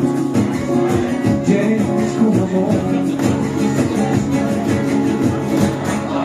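Gipsy-rumba band music: acoustic guitars strumming a fast, even rhythm with a guitar melody over it.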